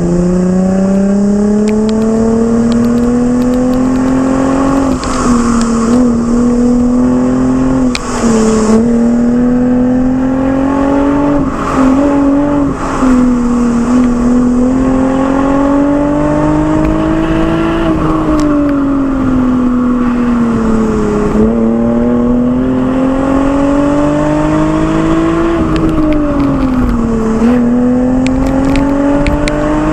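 Lexus IS with an aftermarket Fi Exhaust system, engine under way on a mountain road. The exhaust note climbs slowly and steadily in pitch, then dips sharply about half a dozen times as the revs drop between pulls.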